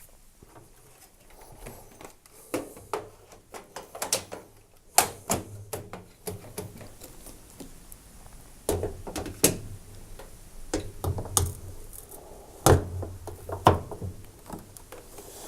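Irregular clicks and knocks of a Miele tumble dryer's control panel and door being fitted back onto the machine, with a few sharper knocks among them.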